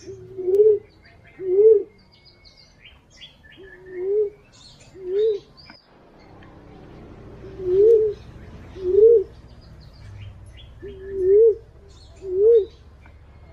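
Fruit pigeon cooing: a low coo that rises and falls, given in pairs about a second apart, four pairs in all, the lure call used to draw in punai and walik. Small birds chirp faintly and higher in the background.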